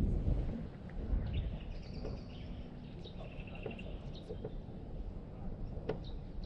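Birds chirping and trilling over a steady low rumble, with a few faint clicks.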